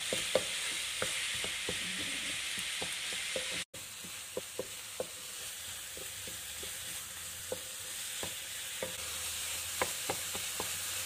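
Minced chicken and chopped vegetables sizzling in a non-stick wok while a spatula stirs them, its strokes tapping against the pan at irregular intervals. The sound cuts out for an instant about a third of the way in.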